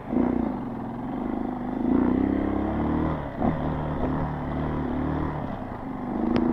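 Single-cylinder four-stroke dirt bike engine under throttle while riding, the engine note rising about two seconds in, easing off briefly, then climbing again near the end. A sharp click near the end.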